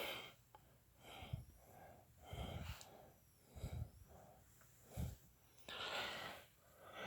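A person's faint breathing, one breath about every second, with soft low thumps among some of the breaths.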